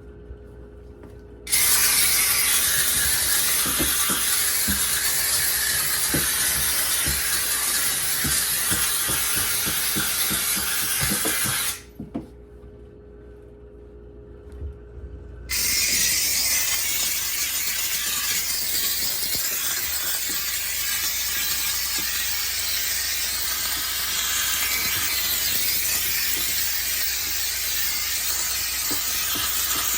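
McCulloch steam cleaner jetting steam in a loud, steady hiss that starts suddenly, cuts off for about four seconds near the middle, then starts again, with light knocks scattered through it.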